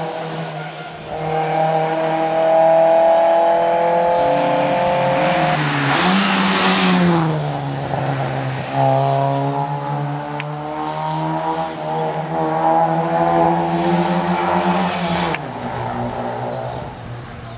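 Rally car engine at full throttle, revving up and shifting gears several times. A loud rushing of tyre and road noise comes in about six seconds in.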